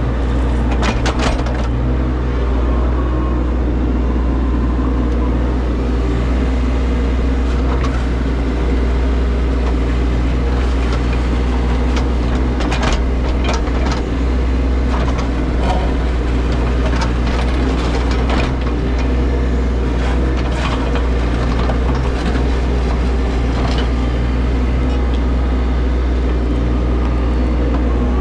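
An engine runs steadily the whole time, with scattered short clanks and knocks on top of it.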